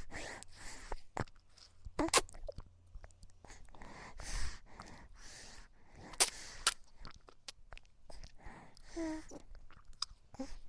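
A baby's breathing and mouth noises: breathy puffs with sharp clicks and smacks, and a short soft vocal sound about nine seconds in.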